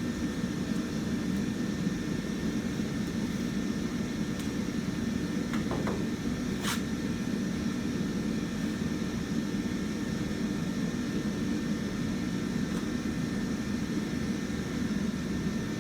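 A steady low mechanical drone, with one sharp click about seven seconds in.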